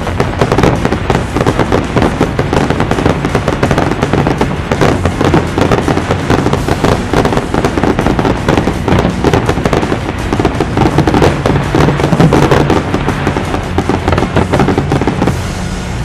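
Fireworks display barrage: a dense, rapid run of bangs and crackles, many per second, with music underneath. The barrage dies away near the end, leaving the music.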